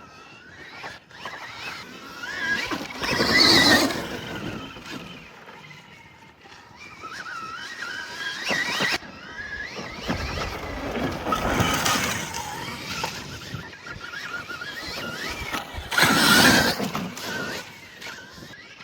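Dirt bikes riding laps, their motors revving up and down in wavering pitch. Two loud passes come about three seconds in and again near the end.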